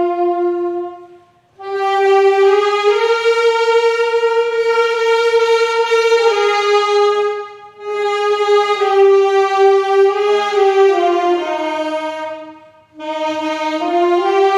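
A solo wind instrument plays the hymn melody in slow, long-held notes, in three phrases with short breaks between them.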